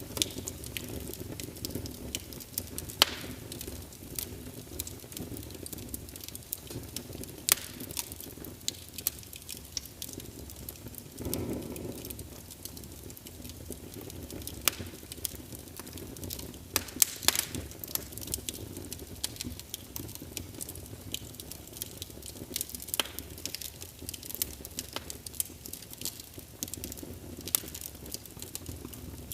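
Wood fire crackling: irregular sharp pops and snaps over a steady low rush of flame, with one brief fuller rush a little before the middle.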